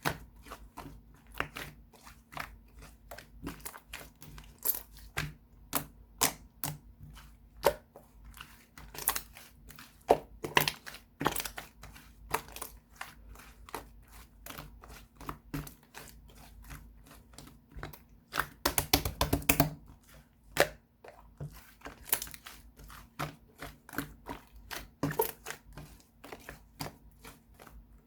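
Slime being squished and worked by hand, giving irregular sharp clicks and pops of trapped air, with a quick run of them about two-thirds of the way through.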